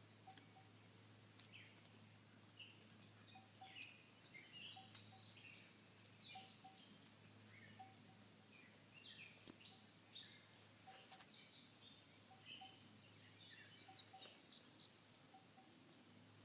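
Faint, busy chirping of small birds: many short high chirps overlapping throughout, over a low steady hum.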